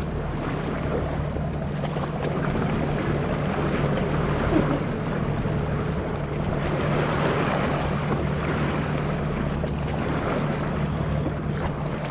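Wind buffeting the microphone over sloshing sea water, with a steady low hum underneath.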